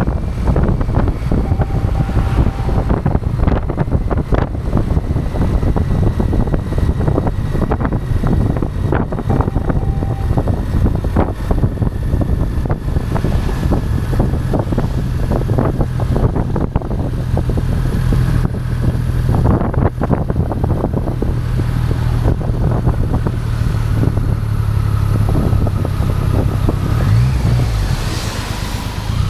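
Motorcycle engine running at a steady road speed, heavy wind buffeting on the microphone. The engine note rises briefly near the end.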